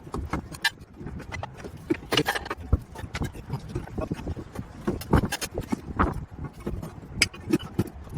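Irregular metallic clicks, clinks and knocks of hand tools and car parts being handled during clutch slave cylinder work.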